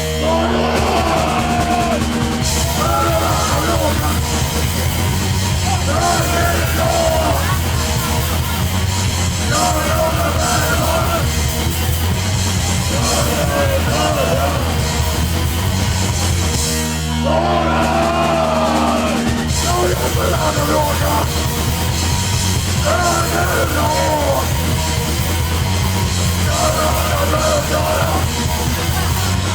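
Live hardcore punk band playing loud and fast: distorted guitars, bass and drums, with shouted vocals in short phrases every few seconds. The band stops for a moment about 17 seconds in, then crashes back in.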